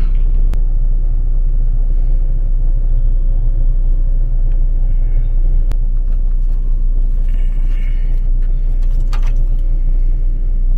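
Steady low rumble of a moving train heard inside the passenger car, with a few light clicks scattered through it.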